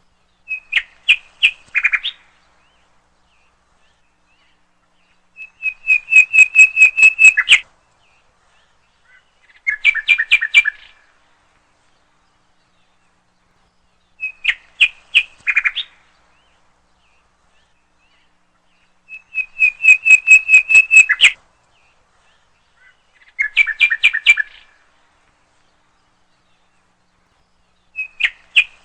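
A songbird singing: short phrases of rapid, trilled chirps, repeated about every four to five seconds with silent gaps between.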